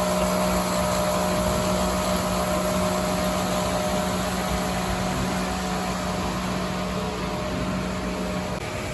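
Electric model trains running on a layout: a steady motor hum that fades slowly, its low tone cutting off shortly before the end.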